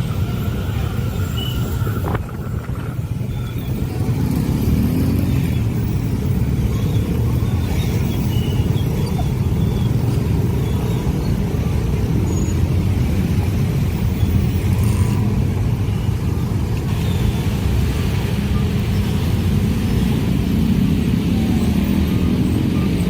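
Train passing with a steady, heavy low rumble that builds slightly about four seconds in.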